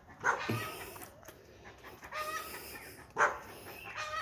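A dog barking a couple of times, once near the start and again about three seconds in.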